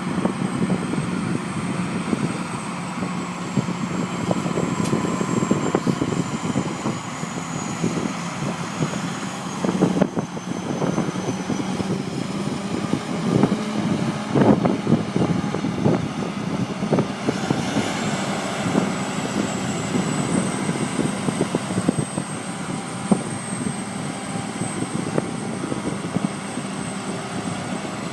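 Tractor engine running steadily under load, with a high thin whine over it. A run of irregular knocks and clatters comes from about ten to sixteen seconds in.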